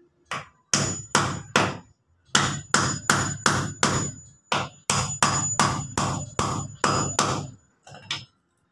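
A hammer driving nails into lumber with steady strikes, about three a second, pausing briefly near two seconds in. A thin high ring sounds over many of the blows.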